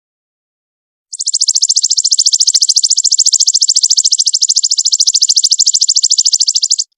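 A songbird's rapid, high-pitched trill, about ten even notes a second, starting about a second in and held for nearly six seconds before stopping abruptly: the kind of rapid 'tembakan' phrase used to tutor cage birds.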